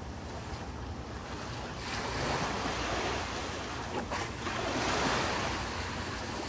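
Ocean surf breaking and washing ashore, a wash that swells about two seconds in and eases off near the end, over steady wind rumble on the microphone.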